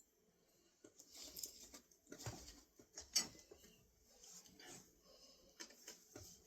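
Faint, irregular small clicks and rustles, with one sharper click a little after three seconds in.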